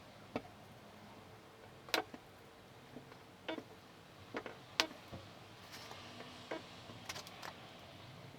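Light, irregular metallic taps and clicks of hand tools working on a car body panel, roughly one a second, some with a short ring.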